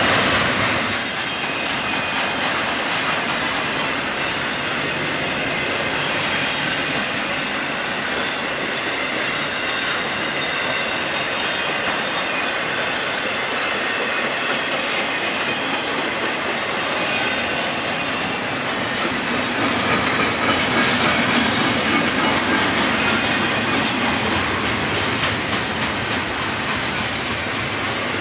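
BNSF intermodal train passing at speed: double-stack container well cars and trailer-carrying cars rolling by, with steady wheel-on-rail noise that swells a little about twenty seconds in.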